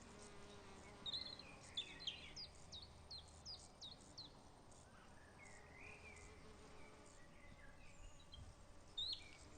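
Faint songbirds calling: a run of short, high chirps that slide downward, about two a second, with a few warbling notes between them.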